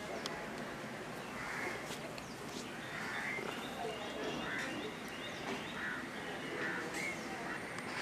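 Birds calling: a series of short calls, roughly one a second, over steady background noise.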